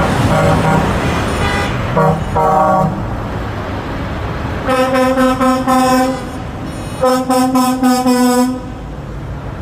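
Truck horns sounding: a short honk about two seconds in, then two longer blasts of over a second each, over steady road traffic noise.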